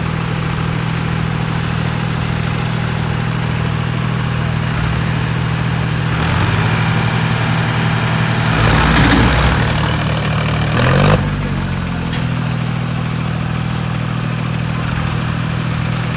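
Modified 3630 tractor's diesel engine idling steadily, then revved up about six seconds in, peaking briefly near eleven seconds before dropping back to idle.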